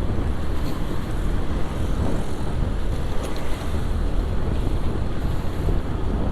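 Wind buffeting a GoPro's microphone on a moving motorcycle, a steady low rush mixed with road and engine noise.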